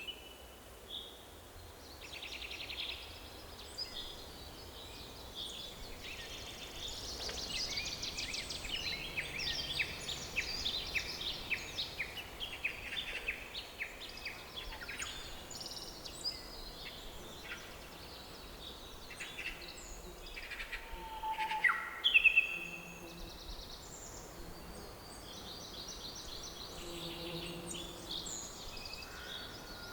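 Several forest birds singing and calling in overlapping chirps and trills over faint, steady background noise, with a few louder calls about three-quarters of the way through.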